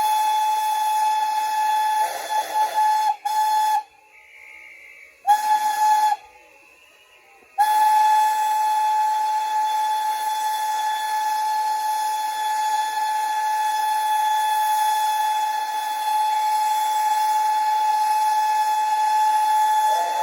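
A steam locomotive whistle sounds one steady pitch over a hiss of steam. There is a blast of nearly four seconds, a short blast about five seconds in, then a long blast held for about twelve seconds.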